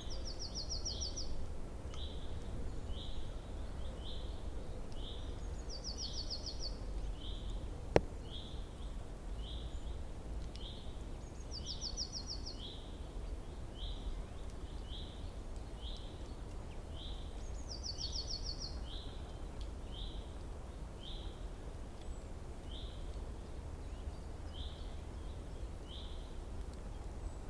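Songbirds calling outdoors: a short, slurred call note repeating roughly once or twice a second, and a quick high trill breaking in about every six seconds. A single sharp click about eight seconds in, over a steady low rumble.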